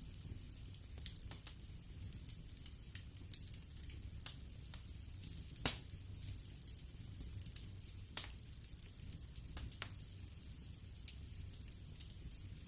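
Wood fire crackling in a fireplace: irregular small snaps over a low steady rumble, with two louder pops about six and eight seconds in.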